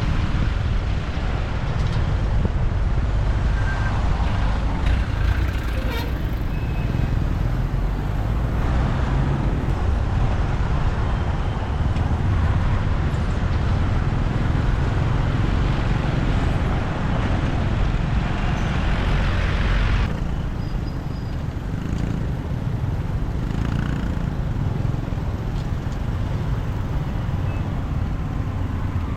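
Motorbike riding through city traffic: a steady low rumble of road and engine noise with other vehicles around. The higher hiss eases off about two-thirds of the way through.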